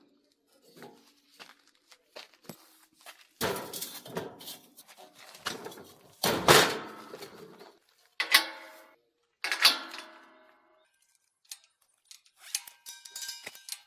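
Intermittent metallic knocks and clatter of steel parts and hand tools being handled, with a few ringing clanks midway through.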